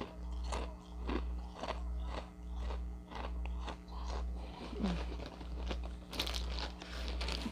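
A person chewing Ritz Toasted Chips with the mouth close to a phone microphone: a run of crisp crunches about twice a second, over a steady low hum.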